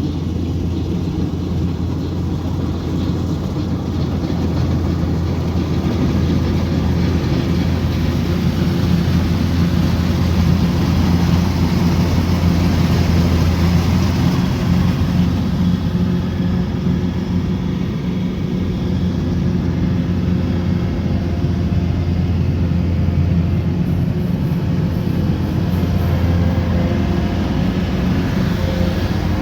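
Rice combine harvester's diesel engine running steadily under load, a continuous low hum that swells a little a few seconds in.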